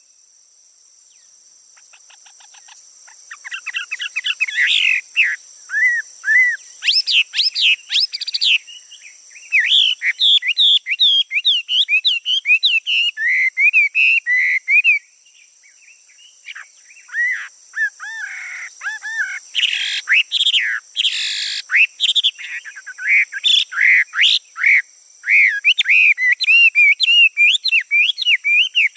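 A male songbird singing, with rapid, varied phrases of chirps, trills and whistled notes. The song pauses for a few seconds at the start and again about halfway through. A steady high-pitched whine runs underneath.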